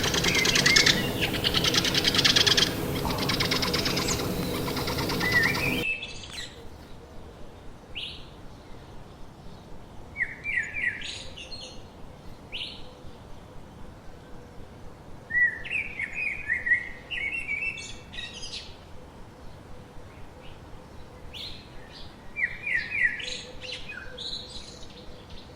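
A loud, dense stretch of sound that cuts off abruptly about six seconds in. Small birds chirp after it, with scattered short calls and three quick runs of falling notes.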